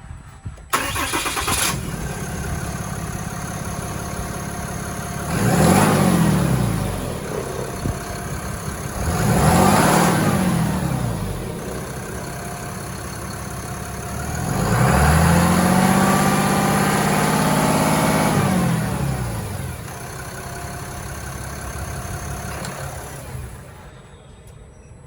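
2024 Ram 2500 pickup engine starting about a second in, then idling and revved three times, the third rev held for several seconds before falling back to idle. The engine is switched off near the end.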